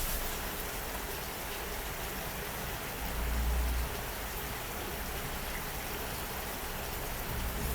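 Chicken pieces sizzling steadily in a frying pan, in oil glazed with fish sauce and sugar. A brief low rumble comes about three seconds in.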